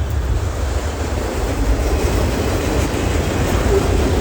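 Train rolling past close by: a steady, loud rumble of railcars on the track.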